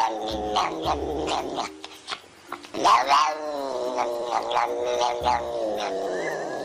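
Domestic tortoiseshell cat vocalising while being brushed: a run of quick mumbling "nog-nog" syllables, a short pause, then a long wavering yowl that pulses as it goes, near the end.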